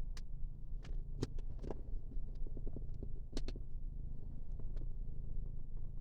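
Low, steady rumble of a car, heard from inside the cabin, with scattered sharp clicks and taps over it.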